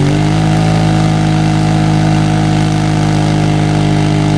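Side-by-side UTV engine held at steady elevated revs, spinning the tires to heat them up. The engine note steps up slightly at the start and then holds a constant pitch.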